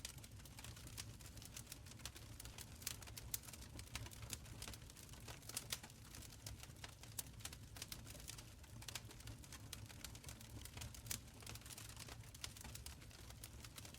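Wood fire crackling in a stone fireplace: frequent irregular sharp pops and snaps over a soft low rumble of the flames.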